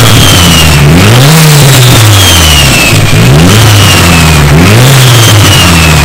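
Mitsubishi Lancer Evolution V's turbocharged 4G63 four-cylinder engine being revved loudly again and again, its pitch climbing and falling about every second and a half. A high whistle glides down after each rev.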